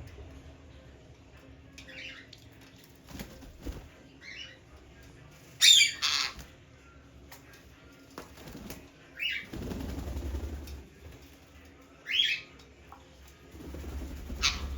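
Pet parrot giving short, harsh calls about six times, the loudest a pair of squawks about six seconds in. Twice, around ten seconds and again near the end, there is a second or so of wing flapping, as the bird beats its wings during its bath.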